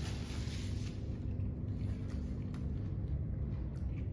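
Steady low background rumble with a faint hum that stops about three seconds in, and a few faint clicks.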